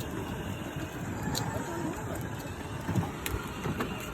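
Child's battery-powered two-seater ride-on toy car driving over grass: a steady mechanical whirring and rumbling of its motor and wheels, with a few sharp clicks and knocks.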